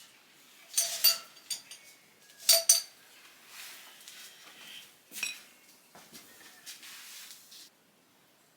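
Hard objects knocking and clinking together, with two loud clusters of clinks in the first three seconds, then a few seconds of soft scraping noise with a couple more knocks that stops suddenly near the end.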